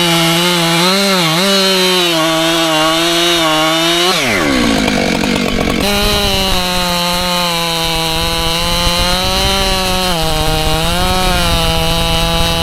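Husqvarna chainsaw running at high revs while cutting white oak, its pitch wavering under the load. About four seconds in, the revs fall off steeply for a couple of seconds, then come straight back to full speed.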